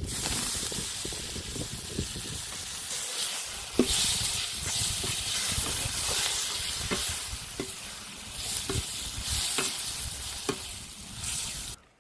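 Tilapia frying in hot oil, a steady loud sizzle, with a utensil knocking against the pan about once a second while it is stirred. The sound cuts off suddenly near the end.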